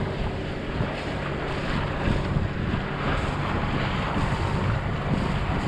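Wind buffeting the microphone over a sailing yacht's steady low engine hum and water rushing along the hull.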